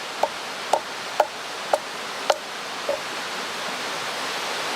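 Wood being chopped: six sharp knocks, about two a second, the last one weaker, over the steady rush of a mountain stream.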